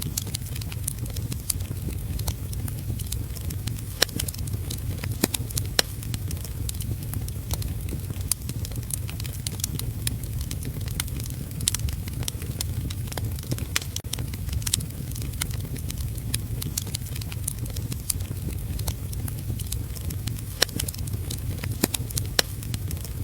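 Wood fire crackling in a fireplace, with sharp irregular pops over a steady low rumble and hiss.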